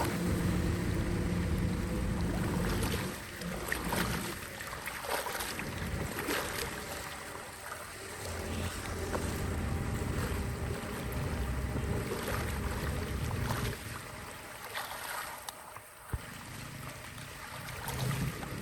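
Running water, with a few short clicks on top.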